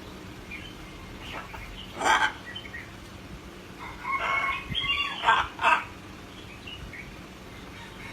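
Bird calls: one harsh call about two seconds in, then a run of pitched calls between about four and six seconds.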